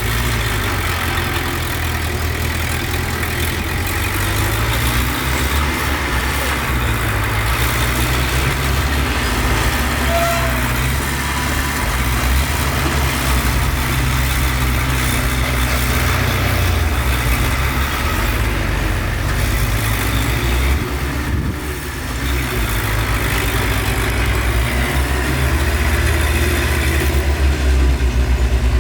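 Heavy diesel engines of earthmoving machinery, dump trucks or a bulldozer, running steadily and shifting a little in pitch and load. The sound dips briefly about two-thirds of the way in and grows louder near the end.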